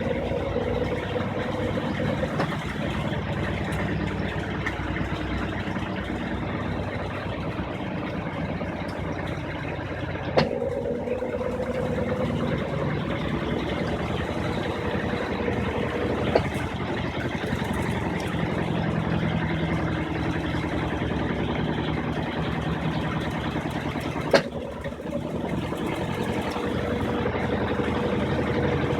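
Brastemp 15 kg washing machine in its spin cycle, drum spinning steadily at full speed after its pulsed start, with a steady hum. Three short clicks about 10, 16 and 24 seconds in.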